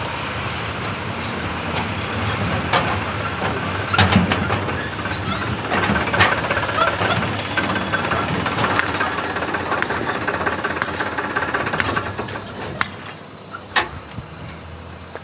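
Diesel engine of heavy machinery running, with sharp metallic knocks about four seconds in, about six seconds in and near the end. The engine noise drops off a few seconds before the end.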